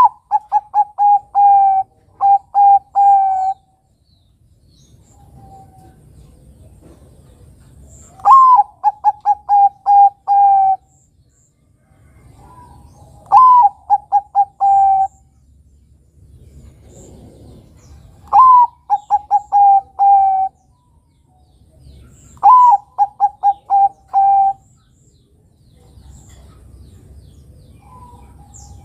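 Bangkok-type perkutut (zebra dove) cooing in its full repeated song. Five phrases, each a higher swooping note followed by a quick run of about six to eight short, even coos, with gaps of a few seconds between phrases.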